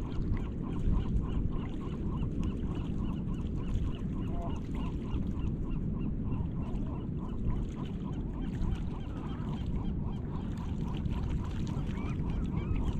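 Gulls calling in short, quickly repeated notes, several a second, over a steady low rumble.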